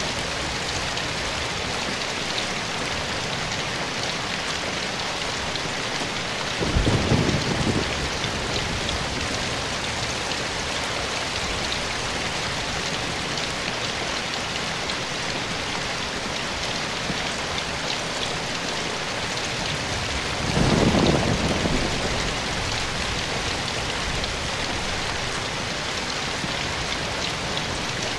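Steady rain falling on forest foliage, an even hiss of many drops. Twice, about 14 seconds apart, a brief low rumble of thunder rises above it.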